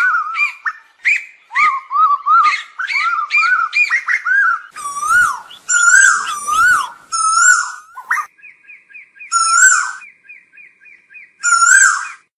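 Asian koel calling: short rising whistled notes, repeated several times a second. From about eight seconds in, a fast run of short higher notes takes over, with louder calls breaking in over it.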